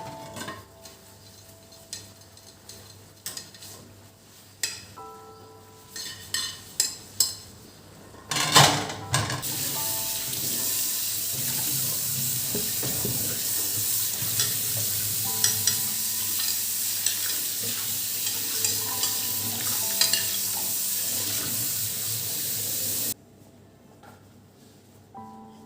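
Dishes and cutlery clinking and knocking, then a steady hissing rush with clinks over it for about fourteen seconds, which stops abruptly.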